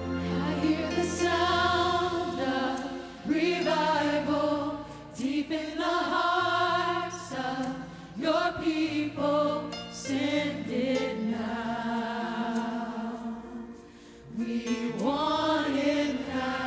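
Choir singing a slow song in phrases over sustained low notes, the voices wavering with vibrato.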